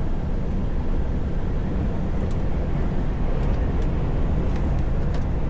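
Steady low rumble of a truck driving, engine and road noise heard from inside the cab, with a few faint clicks.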